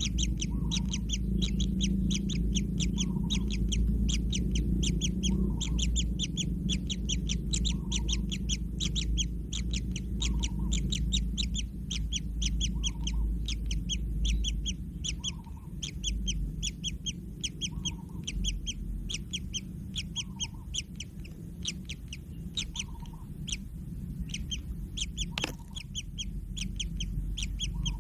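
Kingfisher nestlings giving rapid, ceaseless begging calls: a long run of sharp, high chirps, several a second, over a steady low rumble.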